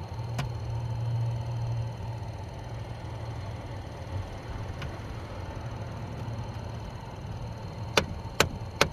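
Steady low hum of the car running. About a second before the end, the HVAC air-door actuator starts clicking rapidly, about two to three clicks a second. The actuator's worn final gear is skipping as it tries to drive the door into position.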